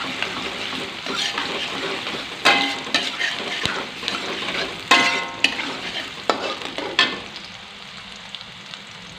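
Sliced shallots and garlic sizzling in hot oil in a metal wok while a metal spatula stirs them, scraping the pan and striking it with a few sharp ringing clangs. The sizzling quietens near the end as the stirring stops.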